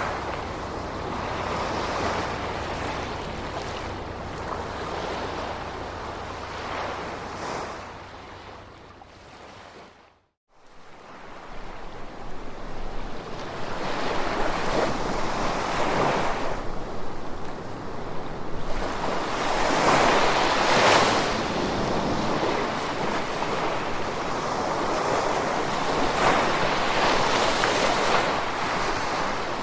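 Gentle ocean waves washing on a shore, swelling and ebbing every few seconds. About eight seconds in, the sound fades down to a brief silence, then fades back in over a few seconds.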